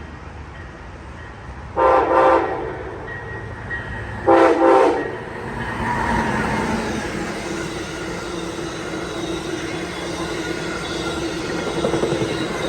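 An Amtrak ALC42 Charger diesel-electric locomotive sounds its horn in two short blasts about two seconds apart, then the train runs by with a building rumble and wheel clatter on the rails.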